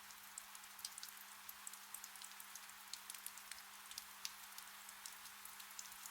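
Gentle rain falling: a soft, even hiss with many small drop ticks scattered through it. A faint steady hum runs underneath.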